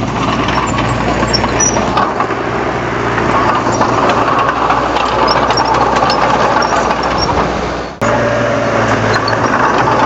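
Diesel engine of a Komatsu D31 bulldozer running steadily, with scattered light clicks and clanks. The sound breaks off sharply about eight seconds in and picks up again at once.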